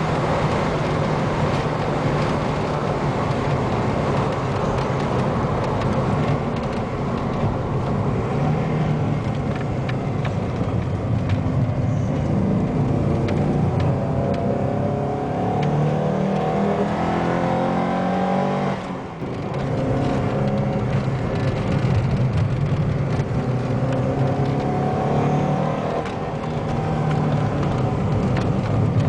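Alfa Romeo 33 1.7 16v's flat-four engine heard from inside the cabin while lapping a circuit, run hard with the pitch climbing through the revs. About two-thirds of the way through it briefly cuts out, then pulls again.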